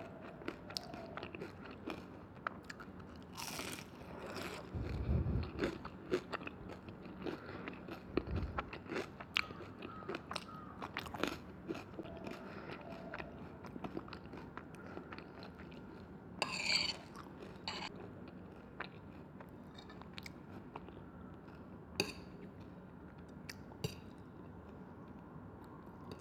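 Close-miked ASMR eating sounds: a person biting, chewing and crunching food, with many wet mouth clicks, a few low thumps and one louder crunchy burst about two-thirds of the way through.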